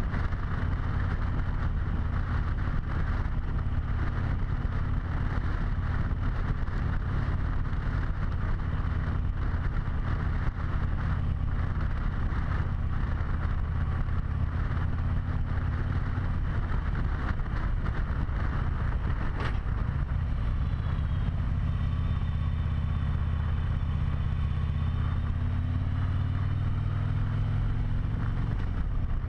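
Harley-Davidson V-twin motorcycle engine running steadily while riding, heard through a helmet-mounted camera. About two-thirds of the way through its note shifts and slowly rises, just after a single light click.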